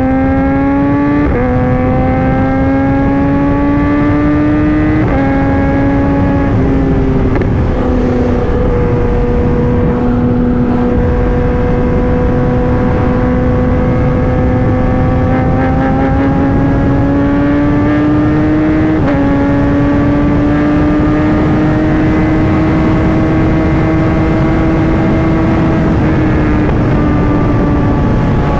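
Kawasaki ZX-10R's inline-four engine under way: its pitch climbs and drops back at three upshifts in the first several seconds, then holds a steady cruise with two more gear changes later. A heavy rush of wind noise runs under it.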